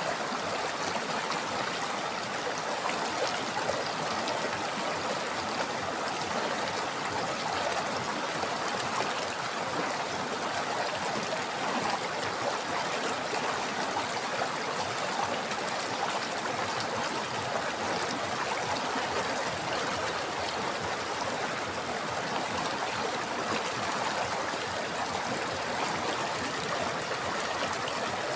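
River water flowing and babbling over rocks, a steady, even rush with no change.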